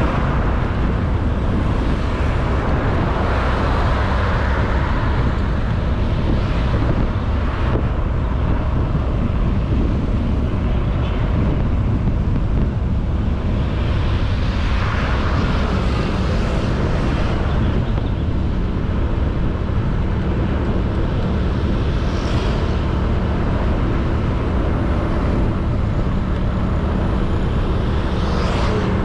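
Honda Beat 110cc scooter's single-cylinder engine running steadily under way, mixed with wind rush and road noise on the microphone. The rushing noise swells a few times, around the third and fifteenth seconds.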